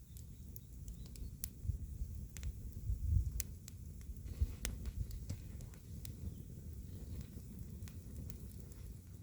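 Open wood fire crackling, with irregular sharp pops and snaps over a low rumble.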